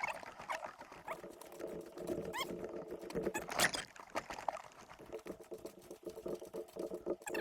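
Footsteps crunching and rustling along a forest portage trail, an irregular patter of steps with a louder crunch about halfway through and a few short high chirps.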